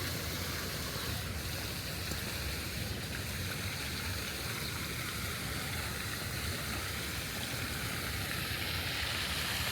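Steady rushing noise of running water, even throughout.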